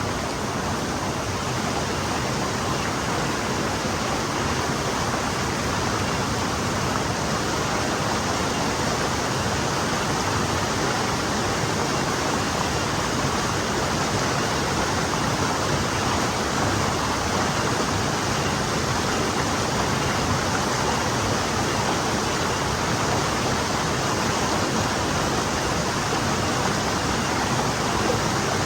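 Forest stream flowing, a steady even rush of water.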